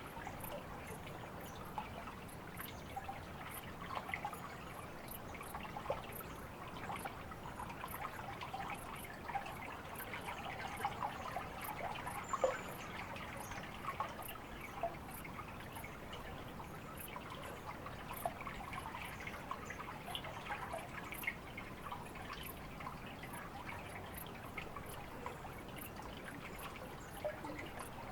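Water trickling and dripping steadily, with many small splashes.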